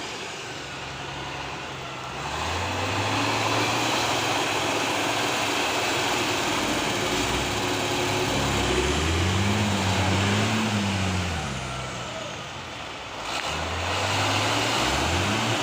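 Diesel truck engine revving up and easing off several times, its pitch climbing highest about ten seconds in, over a steady rushing noise.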